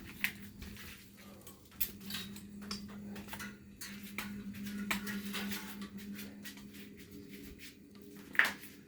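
Handling noise from a camera and its stand being moved and set up: irregular clicks, taps and rustles, with a sharper knock near the end, over a steady low hum.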